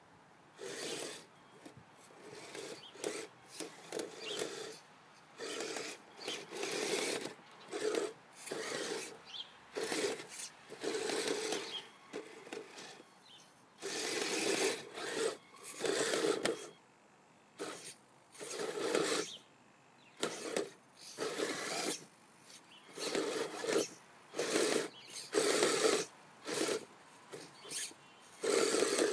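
Kyosho Blizzard SR radio-controlled snowcat's electric motors and tracks running in repeated short bursts of about a second, starting and stopping as it is driven back and forth pushing snow.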